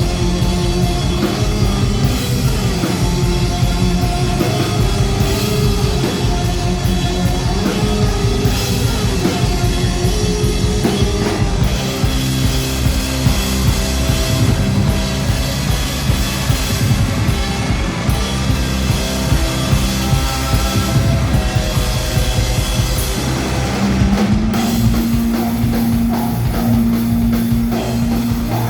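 Rock band playing live, with a driving drum kit beat, bass and guitar; about three quarters through, a long low note is held under the beat.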